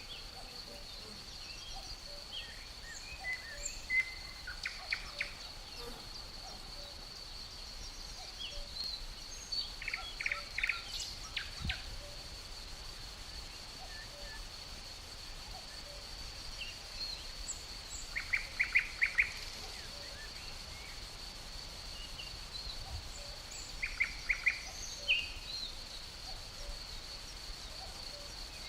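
Forest ambience: crickets trilling in a steady high tone, with songbirds giving scattered short chirps and, three times, a quick run of rapid notes.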